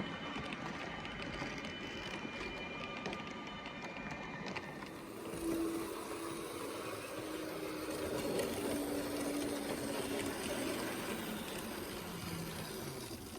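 H0-scale model train running on the layout: a steady whir of the small locomotive motor with the rattle of wheels over the rails.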